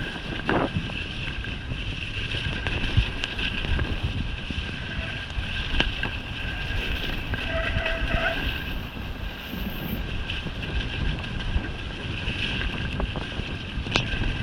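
Wind buffeting the microphone of a mountain bike rider on the move, over a steady rumble of the ride with a few sharp knocks and rattles.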